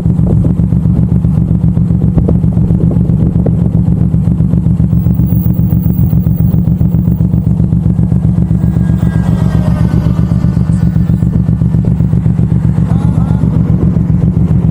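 Suzuki M109R's 1783 cc V-twin engine running steadily under way, a loud, even pulsing picked up by a handlebar-mounted camera.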